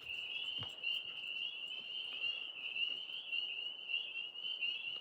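A steady chorus of tree frogs trilling: one unbroken high-pitched pulsing trill.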